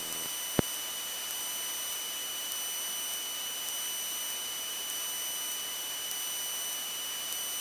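Steady electrical hiss with faint high steady whine tones from a light aircraft's intercom and radio audio feed between transmissions, with one short click about half a second in.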